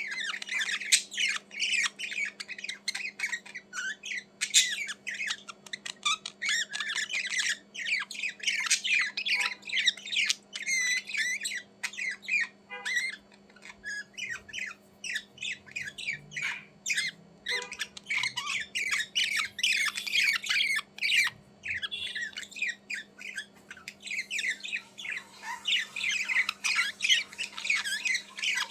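Budgerigars chattering and warbling continuously, a dense stream of quick chirps and squawks with brief lulls, over a faint steady hum.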